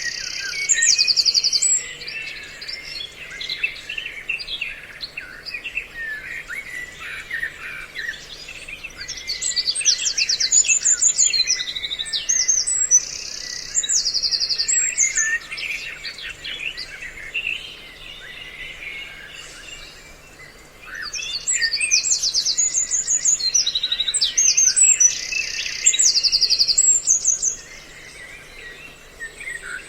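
Recorded bird-lure calls, a mix of several songbirds chattering, with loud groups of fast, high rattling trills coming back every several seconds: the chao chảo / trao trảo lure call used to draw birds in. A faint low steady hum runs underneath.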